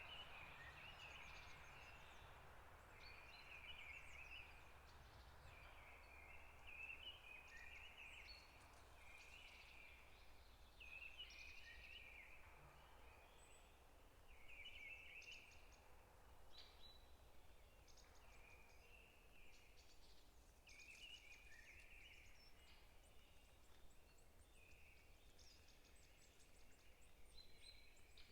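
Forest birds chirping and singing faintly, short overlapping phrases coming one after another, with a soft low background rumble.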